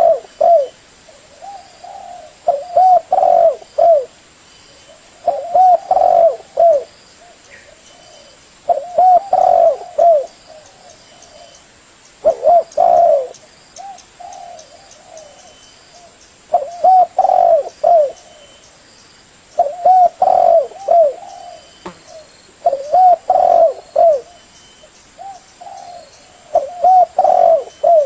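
Spotted dove (tekukur) cooing: a phrase of several low, rounded coos, repeated about every three to four seconds.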